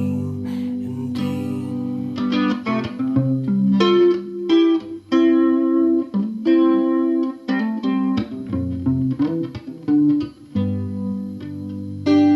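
Solo guitar played fingerstyle: an instrumental passage of plucked notes and ringing chords.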